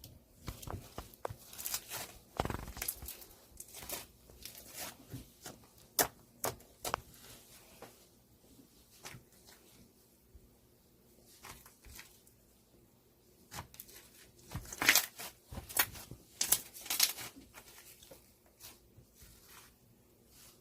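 Irregular rustling, crinkling and sharp taps of things being handled close up, with denser, louder bunches about a third of the way in and again about three quarters through.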